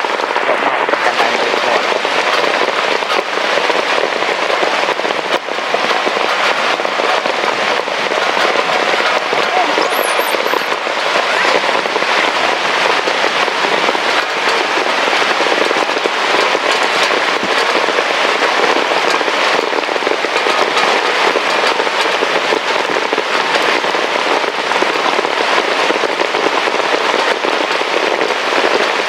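Heavy rain falling: a loud, steady, dense crackle of countless drops striking a surface.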